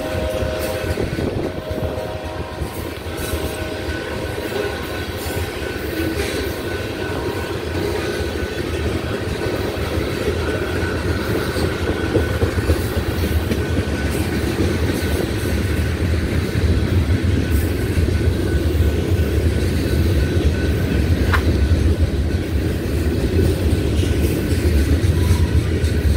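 Freight train of tank cars rolling past close by: a steady rumble and rattle of steel wheels on the rails, growing a little louder toward the end.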